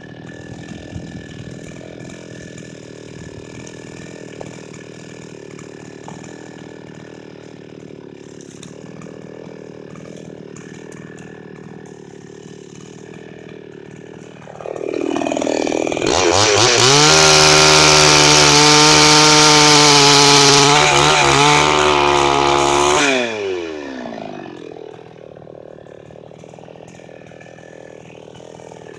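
Petrol chainsaw idling, then revved up to full throttle about fifteen seconds in and held there for around eight seconds, before dropping back to idle.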